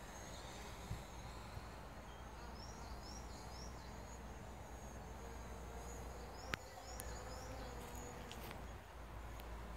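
Faint open-air park ambience: a steady low background rumble with small birds chirping, three short high chirps about two and a half seconds in and a couple more near the end. A single sharp click sounds about two-thirds of the way through.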